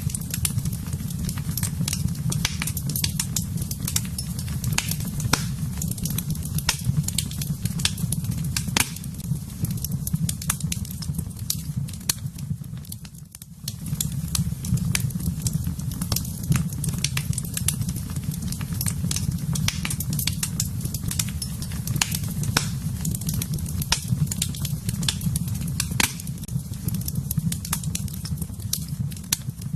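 Wood fire burning in a fireplace: a steady low roar with frequent sharp pops and crackles, dropping away briefly a little before halfway.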